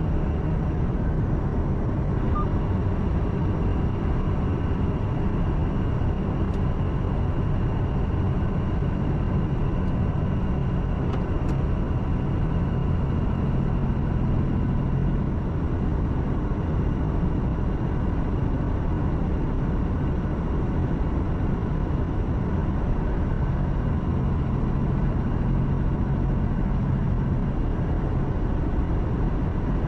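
Truck engine running at cruising speed with tyre and wind noise, heard inside the cab: a steady, even drone with no change in speed. Two faint clicks about six and eleven seconds in.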